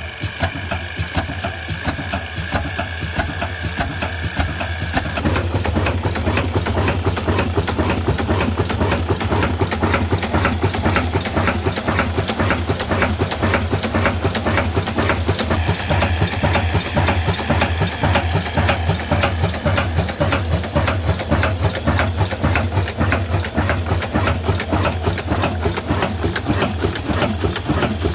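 Old black desi diesel engine running with a steady, even beat. It grows louder and fuller about five seconds in.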